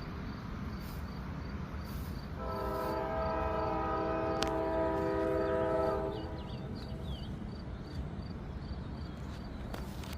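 A single long, steady horn blast of about three and a half seconds, starting a couple of seconds in, over a steady low rumble. Faint high chirps repeat about twice a second throughout.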